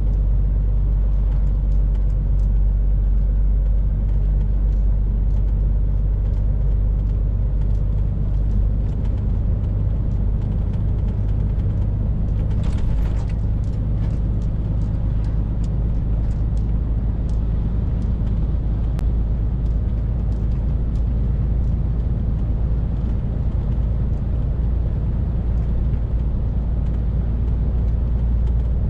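Scania R450 lorry's 13-litre straight-six diesel running steadily under way, with road noise: a continuous low drone that holds even throughout. Faint scattered clicks and a brief hiss about twelve seconds in.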